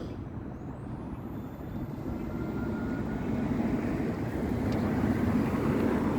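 A steady rumble of road traffic that grows gradually louder.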